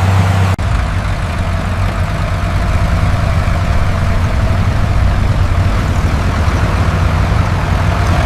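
Tractor engine running steadily with a low rumble, briefly cut off about half a second in and then carrying on.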